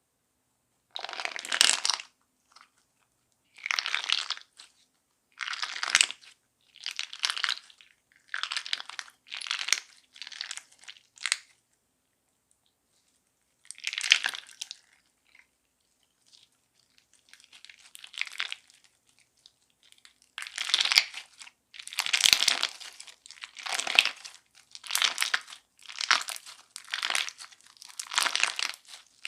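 Crunch slime being squeezed and pressed by hand, giving repeated bursts of crackling crunches of about a second each, with a quieter spell about halfway through.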